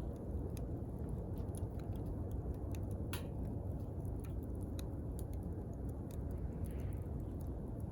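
Wood fire crackling: scattered sharp pops and snaps over a steady low rumble, with one louder pop about three seconds in.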